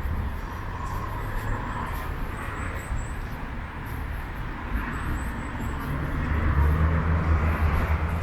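City road traffic going by, a steady low engine and tyre rumble that grows louder near the end as a vehicle passes close.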